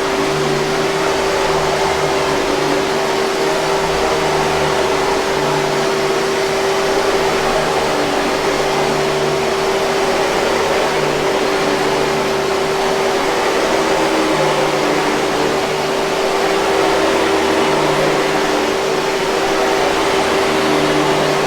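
Hoover 5000 Series canister vacuum running steadily, a constant rushing of air over a steady mid-pitched motor whine, with a low hum that wavers in and out.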